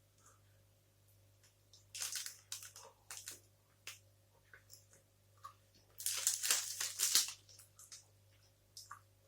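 Close-miked sounds of eating a protein bar: a few short crackly, crinkly noises about two and three seconds in, then a longer, louder crinkling stretch about six seconds in.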